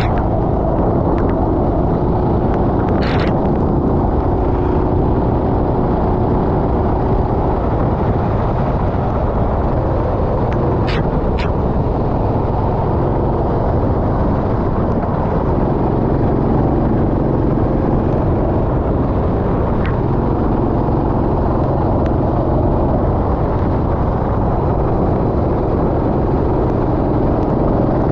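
Racing kart engine running hard, its tone coming and going with the throttle, under a heavy steady rush of wind and wet-track noise. A few brief sharp clicks come about 3 seconds in and twice around 11 seconds.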